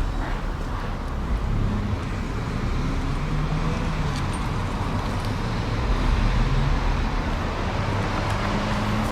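Steady low rumble of road traffic, with the hum of vehicle engines shifting in pitch as they pass.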